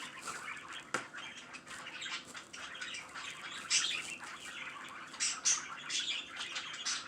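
Pet bird chirping and chattering in short, irregular bursts with a few sharp clicks, its louder high calls coming about four and five seconds in.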